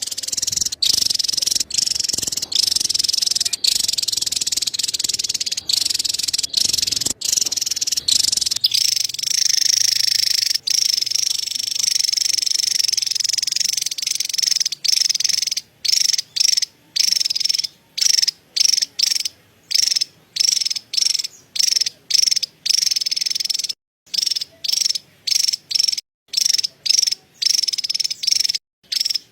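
Javan tesia giving its high, dry chattering call. The chatter runs almost unbroken for the first half, then breaks into short rapid bursts about one and a half times a second.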